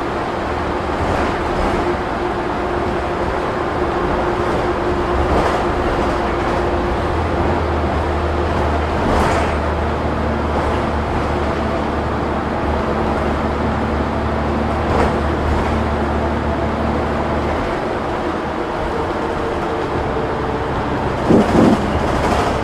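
Interior of a moving city bus: engine and road noise running steadily with a low hum, broken by a few short rattles. A brief louder sound that bends in pitch comes near the end.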